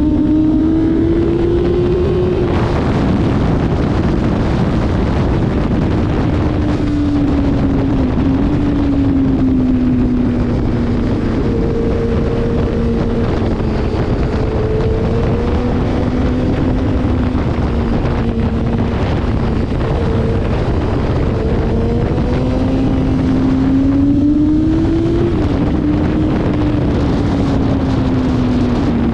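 Motorcycle engine running at speed, its pitch rising and falling with the throttle and dropping suddenly a few times, under heavy wind noise on the microphone.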